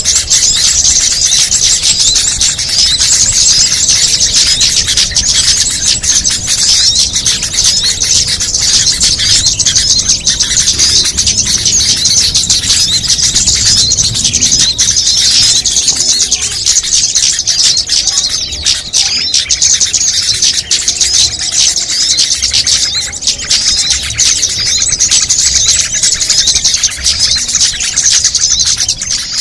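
Dense, unbroken chatter of many small songbirds, rapid high-pitched chirps and trills overlapping without pause: a mixed bird-lure (pikat) call track for small birds.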